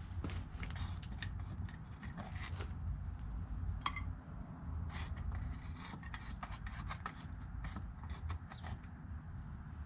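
Irregular light scraping and clinking of hard objects over a steady low hum.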